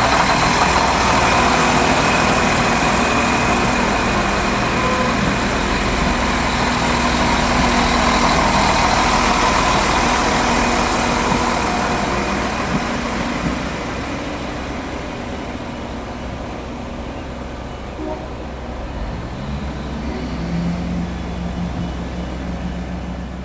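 Irish Rail 22000 class diesel multiple unit passing at speed: the underfloor diesel engines and wheels on the rails make a steady rumble that fades as the last carriage clears, about halfway through. Near the end a low engine hum rises in pitch and then holds steady.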